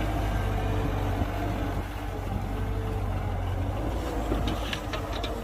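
Diesel engine of heavy earthmoving machinery running steadily, its sound mostly deep and low, with a few sharp clicks near the end.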